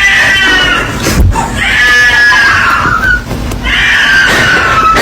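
A cat screaming in long, high-pitched yowls, three drawn-out cries that each sag a little in pitch. A short knock comes about a second in.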